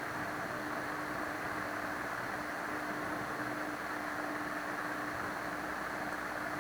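Steady background hiss with a faint constant hum: the microphone's room tone during a pause in the narration. A single sharp click right at the end.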